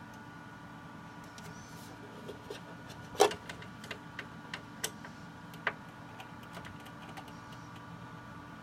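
Scattered light clicks and taps of a screwdriver working the small screws of an Xbox One's Wi-Fi card, its bit slightly too small for them. The sharpest click comes a little over three seconds in. A steady hum runs underneath.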